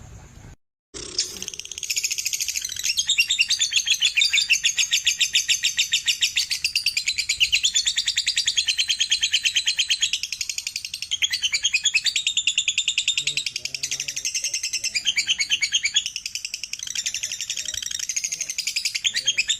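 Lovebird singing a long, rapid chattering trill, the 'ngekek' song that keepers play to their birds, starting about a second in after a brief silence and carrying on without a break.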